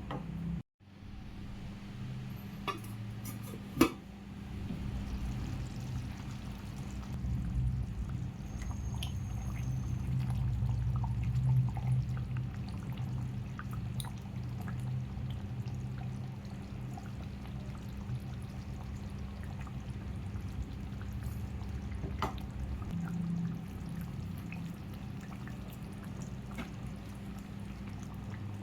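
Liquid sounds from cooking in a pan, with a sharp click about four seconds in.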